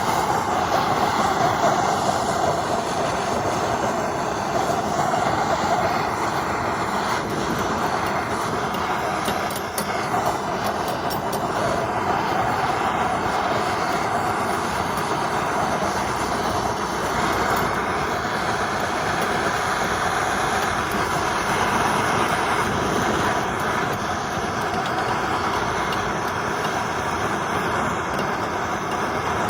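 Gas torch flame burning steadily, a continuous rushing hiss, as it heats a wire stripper part to burn off the built-up insulation gunk.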